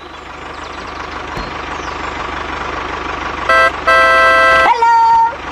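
A small motor running steadily with a fine rapid ticking, then a horn honks loudly for about a second, followed by a shorter, higher horn-like tone that slides up and holds near the end.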